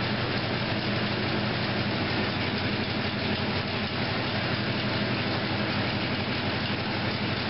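Rebuilt Ford 390 FE V8, fitted with a COMP Big Mutha Thumper camshaft, running steadily on an engine dyno at an even, unchanging speed.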